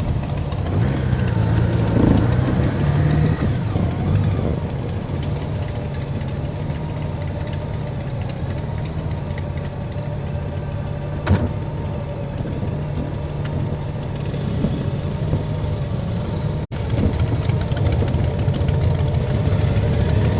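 Motorcycle engine running steadily, with a single sharp click partway through and a momentary dropout in the sound about three-quarters of the way in.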